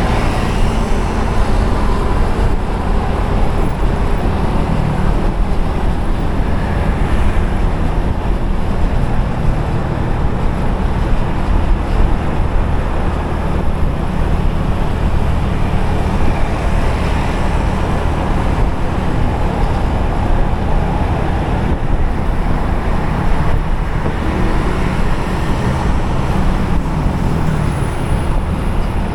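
Steady road noise from a motorcycle riding along a busy highway: the motorbike's engine and passing traffic under a heavy, continuous low rumble, without letup.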